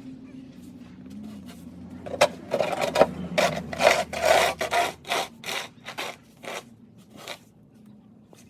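Snow shovel scraping over a sidewalk in a run of quick, irregular strokes that start about two seconds in.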